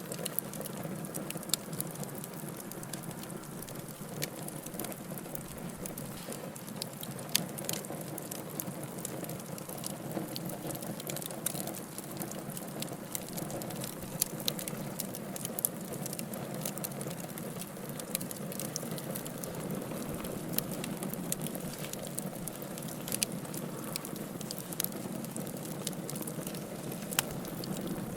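Wood fire burning in a fireplace: a steady low rush of flame with frequent small crackles and now and then a sharper pop.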